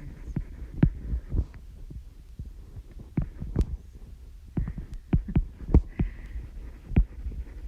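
Irregular soft thumps and sharper clicks, several a second and unevenly spaced, over a steady low hum.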